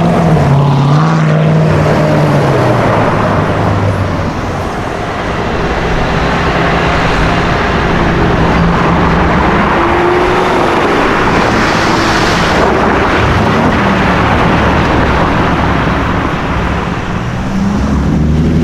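Sports car engines on a city street, the engine note rising and falling as the cars accelerate and shift, over a steady roar of exhaust, tyres and traffic. A brighter rushing noise swells in the middle and cuts off suddenly.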